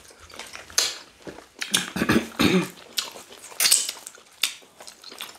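Close-up mouth sounds of eating fufu with ogbono soup: wet chewing and lip smacks in short, irregular bursts. A brief voiced sound comes about two seconds in.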